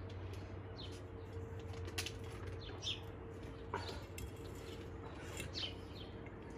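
Garden birds chirping: short, high, falling chirps about once a second, over a low steady hum.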